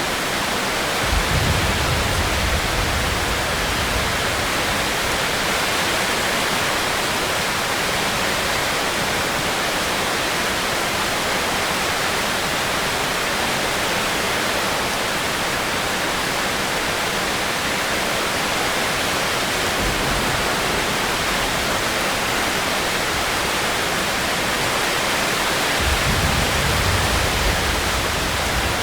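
Steady rainfall, an even hiss, with a low rumble starting about a second in and again near the end.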